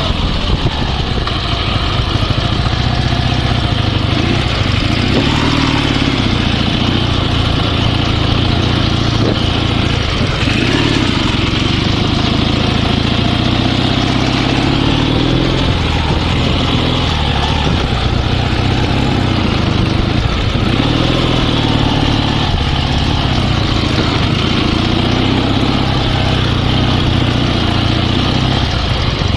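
Dnepr sidecar motorcycle's boxer engine running, its pitch rising and falling several times, with fuel fed straight from the line to the carburettors after bypassing the tank valve.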